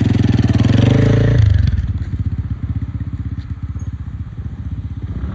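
Motorcycle engine running: it pulls harder and louder for about the first second and a half, then eases back to a steady, quieter run.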